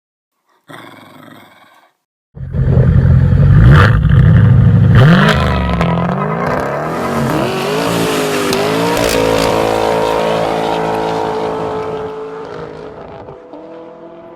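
A car engine revving hard: it starts abruptly about two seconds in, loud, climbs and wavers in pitch, then settles into a steady run and fades away near the end.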